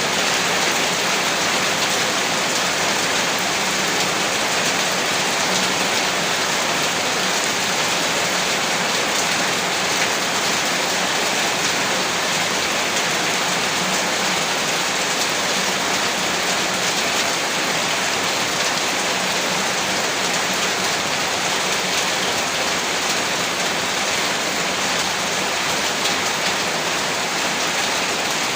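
Steady rainfall, a dense, even hiss of many drops that holds unchanged throughout.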